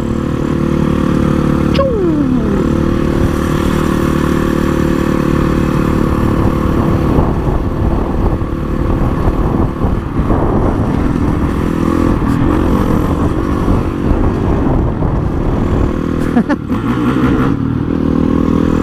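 Honda CRF450 supermoto's single-cylinder four-stroke engine running at road speed over wind noise. Its revs drop sharply about two seconds in and dip and climb again near the end.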